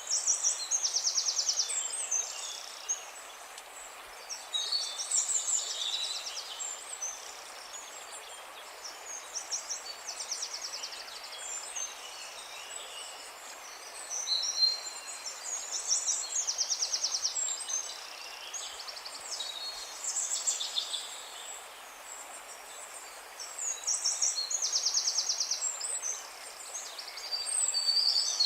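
Wild birds singing: a high, rapid trill about a second long recurs every several seconds, with other chirps between, over a steady hiss of outdoor background noise.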